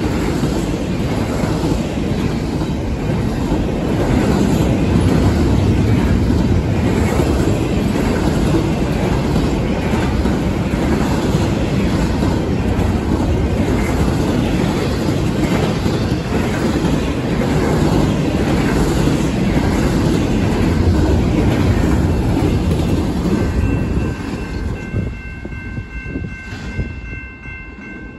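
Double-stack intermodal freight train's cars rolling past close by: a steady, loud rumble and clatter of steel wheels on the rails. In the last few seconds the sound fades away as the end of the train passes and recedes, and a faint high steady whine comes in as it fades.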